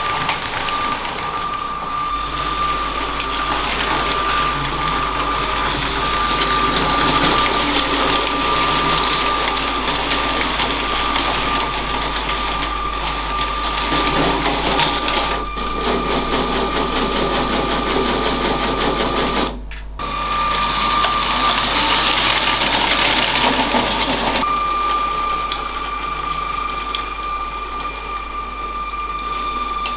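LEGO train motor whirring with a steady high whine while the wheels clatter along plastic track. The sound drops out briefly about two-thirds of the way through.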